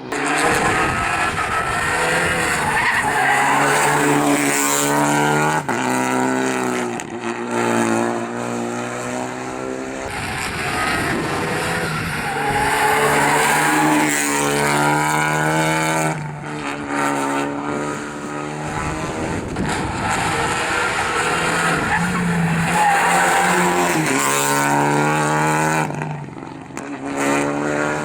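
Rally car engine revving hard and shifting up and down through the gears, its pitch repeatedly climbing and dropping, with tyres skidding through the corners.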